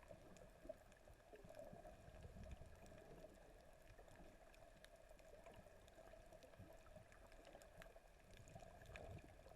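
Near silence: faint, muffled underwater ambience with scattered faint clicks.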